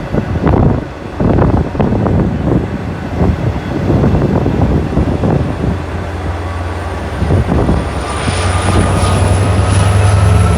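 Train passing close by, with irregular clattering and knocking. From about halfway a steady low rumble sets in, and near the end a slowly rising whine joins it.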